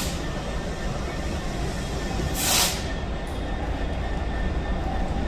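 A train running past with a steady low rumble of wheels on rail. A short, loud burst of hiss comes about two and a half seconds in.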